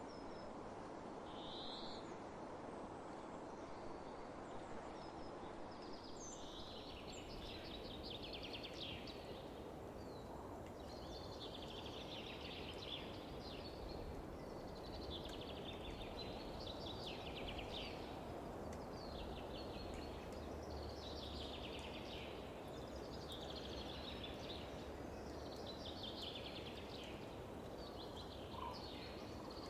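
Wind over open fields as a steady hiss, with a songbird singing the same rapid trilled phrase over and over, about every two and a half seconds, starting about six seconds in.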